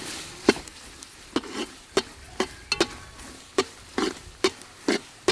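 Knife chopping garlic on a cutting board: about a dozen sharp chops, roughly two a second, at an uneven pace.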